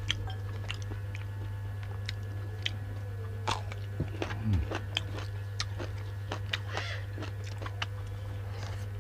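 Close-up eating sounds: irregular wet mouth clicks, biting and chewing with occasional crunches, as one person eats duck meat and raw vegetables. A steady low hum runs underneath.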